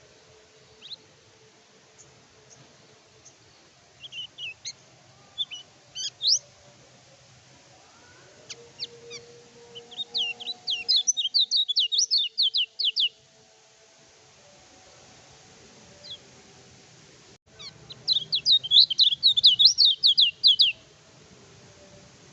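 A kecial kuning (white-eye) singing. It gives scattered short high chirps, then two fast chattering runs of rapid high notes, each lasting about two to three seconds.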